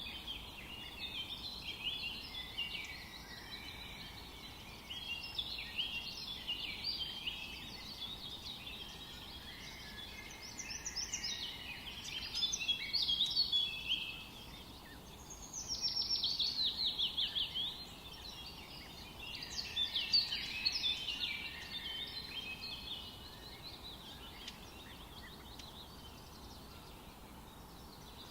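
Several songbirds singing and chirping over a faint, steady forest background. The song is busiest in the middle, where one bird gives a quick run of repeated falling notes.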